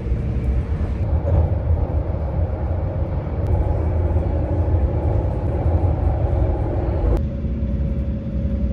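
Steady low rumble of a moving vehicle, changing abruptly about seven seconds in.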